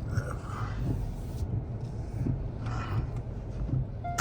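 Steady low rumble of a car running at low speed, heard from inside the cabin while it is manoeuvred into a parking spot.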